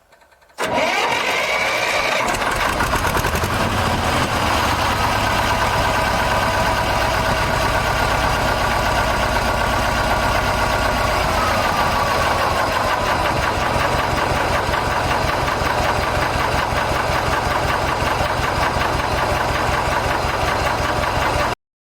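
Diesel engine starting about half a second in, then running at a steady idle with an even low beat until it cuts off suddenly near the end.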